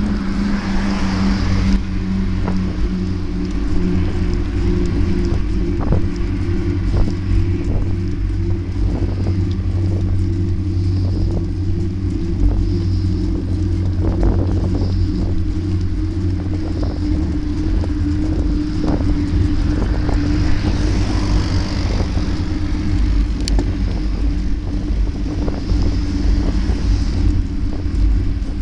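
Motorcycle engine running at a steady cruising speed, with wind rushing over the microphone and occasional light clicks and knocks.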